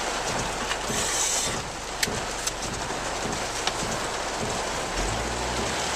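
Heavy rain pelting a moving car, heard from inside the cabin as a dense hiss with a few sharper taps. A low hum from the car comes in about five seconds in.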